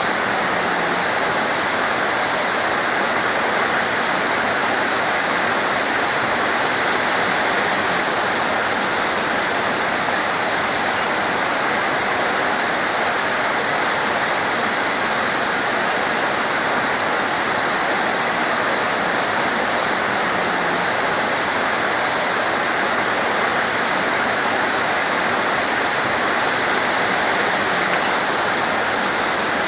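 Heavy torrential rain falling steadily as a dense, even rush of water. A single brief click comes about halfway through.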